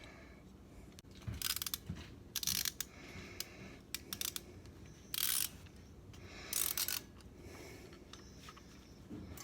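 Ratchet wrench clicking in several short bursts of strokes while tightening bolts.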